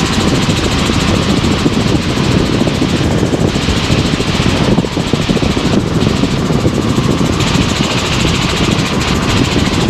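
Helicopter cabin noise in flight: the engine and rotor run steadily, with a rapid even throb under a loud rushing noise.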